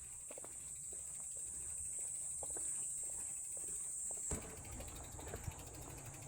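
Steady high-pitched insect chorus, shrill and continuous, over light irregular footsteps. About four seconds in the insect sound cuts off suddenly and a low rumble takes over.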